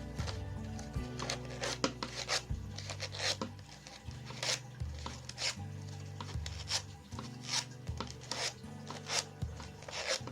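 Paper rustling and crinkling in short, irregular scrapes as cut paper is twisted by hand, over soft background music.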